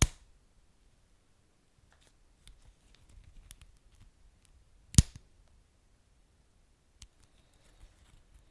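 Wood fire crackling with sparse, sharp pops: two loud snaps, one at the start and one about five seconds in, a few fainter ticks between, over a faint low rumble of the burning.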